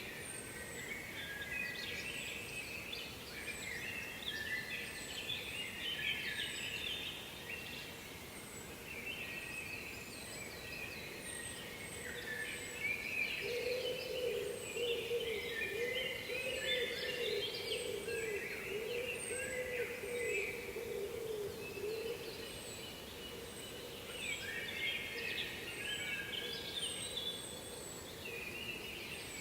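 Several songbirds singing over one another, with short high chirps repeating, above a steady background hiss. From about 13 to 22 seconds a lower wavering tone sounds beneath the birdsong.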